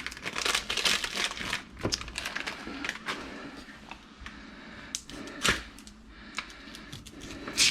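Irregular crackling, crinkling and small clicks, with a few sharper taps about two, five and a half and seven and a half seconds in.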